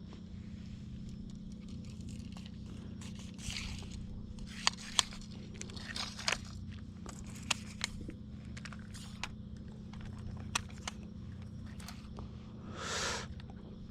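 Scattered sharp clicks, crunches and short scrapes over a steady low hum, with one longer swishing scrape near the end.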